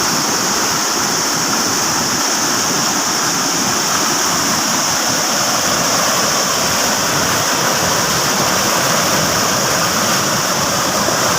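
Floodwater rushing steadily, an even, unbroken roar of flowing water.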